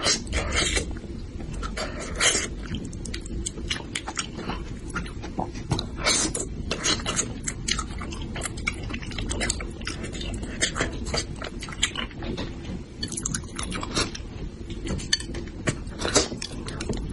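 A person chewing spicy braised bighead carp head close to the microphone, with many irregular wet mouth clicks and smacks.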